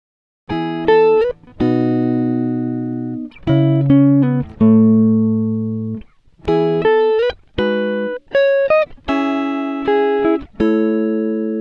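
Background music: a solo plucked string instrument playing a slow melody of single ringing notes, some bent or slid in pitch, each dying away before the next.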